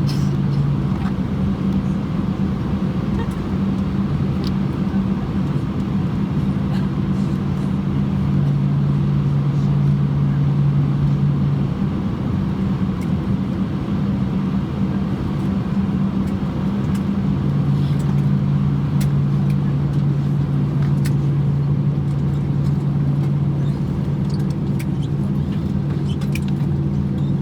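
Airbus A320 cabin noise while taxiing in after landing: the engines at idle and the air system give a steady drone with a low hum. The hum drops away for a few seconds midway, then returns.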